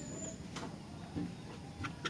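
Sooty-headed bulbul (kutilang) calling: a thin high whistle sliding down in pitch at the start, then two short sharp notes, over a steady low background hum.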